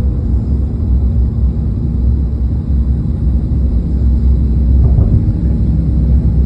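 Jet airliner taking off: a loud, steady low rumble with a constant hum underneath.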